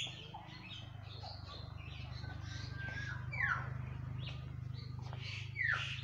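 Several caged birds chirping and calling, with sharp downward-sweeping notes about three and a half seconds in and again near the end, over a steady low hum.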